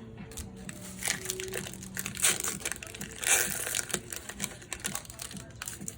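Foil booster pack wrapper crinkling and tearing as it is opened, in a few louder rustling bursts, the loudest a little over three seconds in, amid small clicks and rustles.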